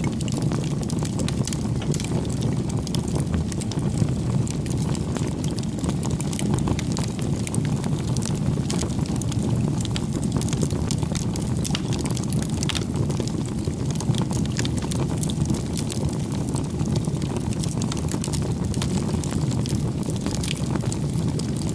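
Campfire burning: a steady low rumble with many small, irregular crackles and pops of burning wood.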